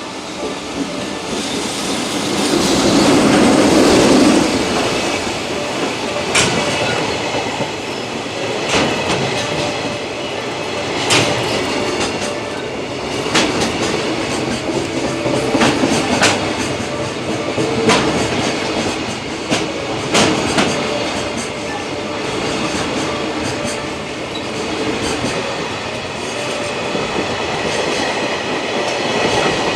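Container freight train hauled by a JR EF65 electric locomotive rolling slowly past. It is loudest a few seconds in, then the wagon wheels clack over rail joints about every two seconds over a steady rumble, with a thin wheel squeal.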